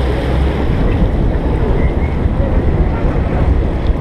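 Chao Phraya river taxi boat under way: its engine drone blends with rushing water and wind buffeting the microphone in a loud, steady noise.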